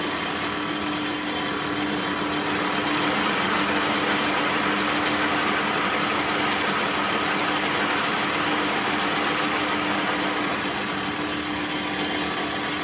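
A workshop machine's motor running steadily, with a constant hum over a hiss.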